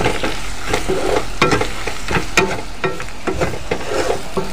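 Onions and ginger-garlic paste with ground spices sizzling in hot oil in a nonstick wok, stirred with a slotted spatula that scrapes and taps against the pan many times at an irregular pace.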